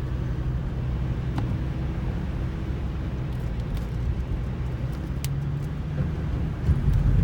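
A vehicle running with a steady low engine hum and road noise, with a louder bump near the end.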